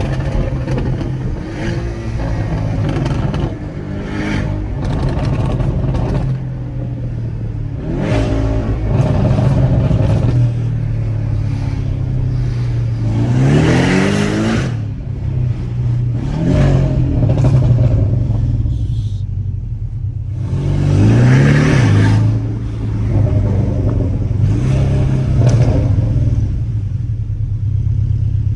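Porsche 718 Cayman engine with a Stage 2 remap and stainless exhaust, driving at a steady drone and then revving up hard twice, near the middle and again about three-quarters through. Sharp pops and crackles from the exhaust's pops-and-bangs map come through between the pulls.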